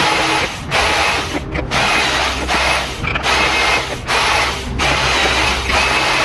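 A power tool cutting or grinding wood in repeated passes, the grinding noise breaking off briefly about once a second while the motor's low hum runs on.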